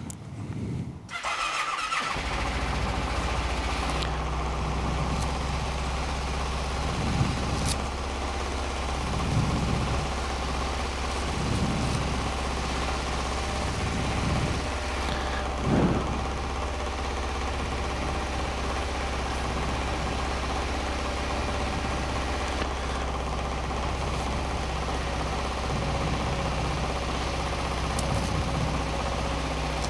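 Honda Rincon 650 ATV's single-cylinder engine starting, catching within the first two seconds, then idling steadily with several short throttle blips.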